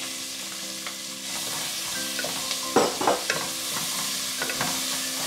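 Freshly added chopped onion sizzling in hot peanut oil, stirred with a wooden spatula. A few louder scrapes of the spatula against the pan come about three seconds in.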